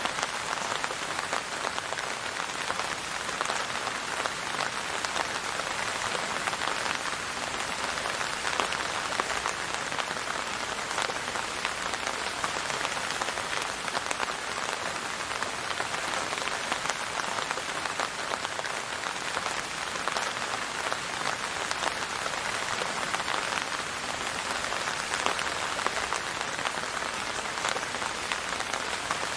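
Steady rain falling on a hard surface, an even hiss filled with countless fine drop ticks, unchanging throughout.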